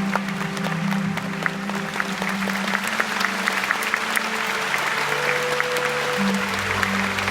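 Audience applauding in a concert hall over slow music with long held notes.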